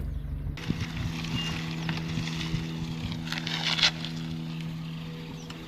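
An engine running steadily with a low hum, joined about half a second in by wind noise, with a few clicks.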